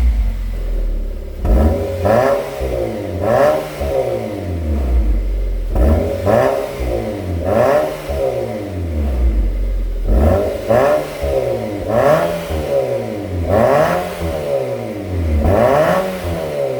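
Renault QM6 engine blipped repeatedly through an aftermarket variable-valve exhaust, each rev rising quickly in pitch and falling back, about every one and a half seconds.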